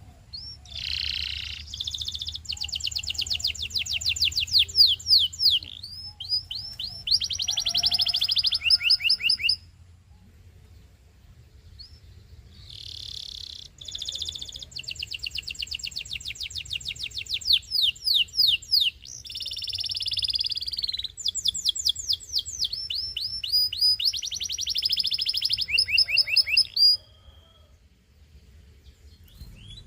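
Domestic canary singing: two long song phrases of fast, high trills and rolls, separated by a pause of a few seconds.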